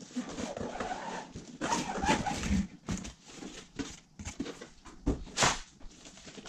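Unboxing handling noise: irregular rustling with clicks and knocks as the packaging and the RC truck are moved about, the loudest knock about five seconds in.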